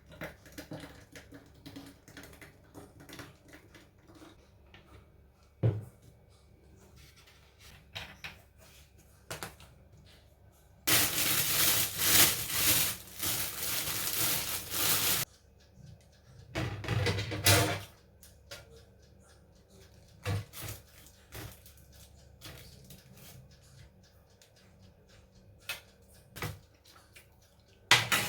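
A water tap running into a sink for about four seconds, then a second, shorter run a second later, amid scattered small clicks and knocks of things being handled.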